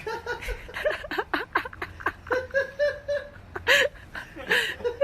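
A person laughing in a long run of quick, repeated bursts, with a couple of louder breathy gasps near the end.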